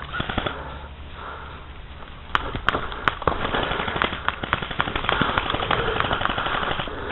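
Airsoft guns firing: scattered pops at first, then a dense rattle of rapid shots from about two and a half seconds in.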